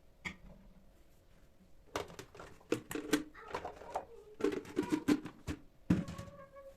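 Kitchenware being handled and set down: a quick knock, then a run of clicks and clinks about two seconds in, ending with a short ringing note.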